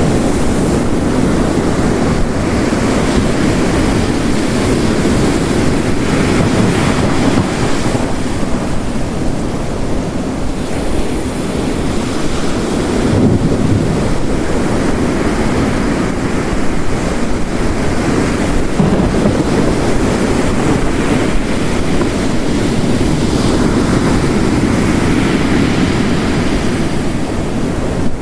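Ocean surf crashing on a coast, mixed with heavy rain, in a dense, steady wash that swells and eases every few seconds.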